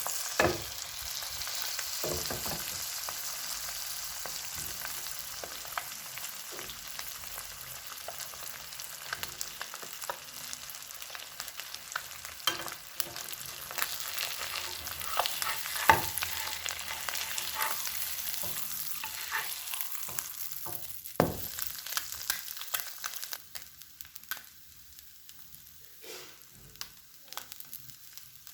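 Food sizzling as it fries in a pan, with frequent short clicks and scrapes of a utensil stirring it. The sizzling dies down near the end.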